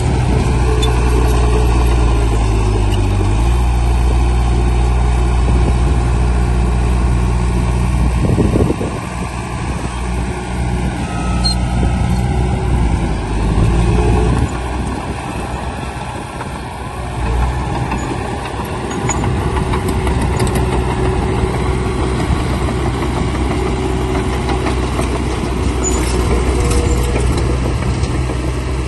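Heavy construction machine's diesel engine running under work, a steady low drone. About eight seconds in, after a brief clatter, the drone changes and turns rougher, then settles back into a steady drone in the second half.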